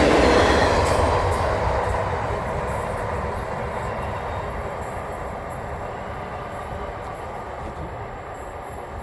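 Double-stack container freight train's wagons rolling along the rails, the wheel noise fading steadily as the train moves away.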